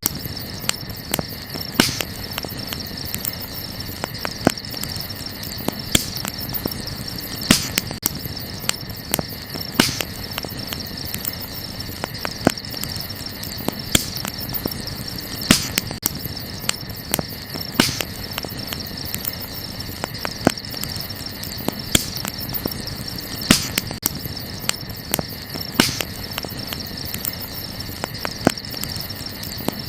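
Wood fire crackling, with sharp, irregular pops, over a steady high chirring of night insects.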